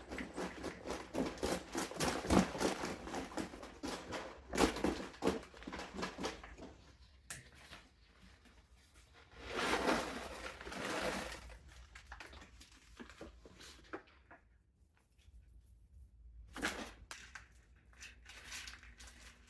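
A bag rustling and crinkling while caramel corn is shaken out of it, the hard pieces clattering and ticking, with a second burst of rustling about ten seconds in and a single knock near the end.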